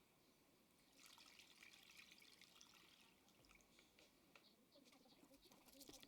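Near silence, with faint scattered ticks over a light hiss.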